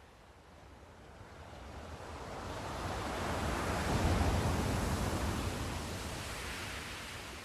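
Sea surf: a single wave builds over about three seconds, breaks with a rushing wash, then fades away.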